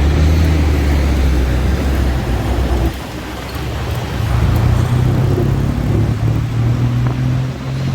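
City road traffic with motor vehicle engines running close by: a deep low rumble for about the first three seconds, then a steady engine hum from about four seconds in.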